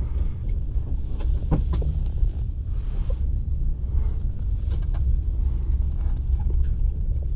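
Passenger train carriage running along the track, heard from inside the carriage: a steady low rumble with a few sharp clacks of the wheels over the rail joints, about one and a half seconds in and again near five seconds.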